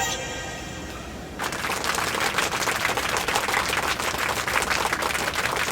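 Treadmill starting up and running, a dense, rapid clatter that sets in about a second and a half in and holds steady.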